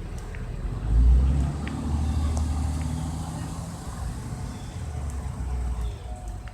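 Motor vehicle engine running with a low rumble that swells sharply about a second in, then settles to a steadier drone.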